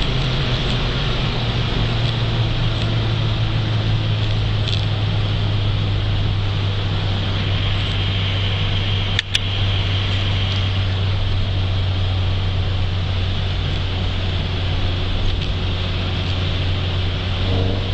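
A 1987 VW Scirocco Mk2's 1.8-litre four-cylinder JH engine running at steady revs under road noise, its note settling slightly lower right at the start. There is one short click about nine seconds in.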